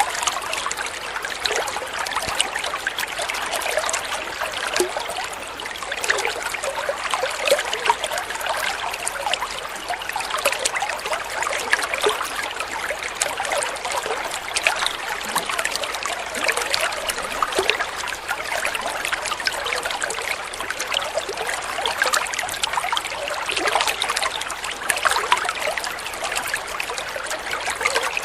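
Flowing water trickling steadily, a continuous run of small splashes with no pauses.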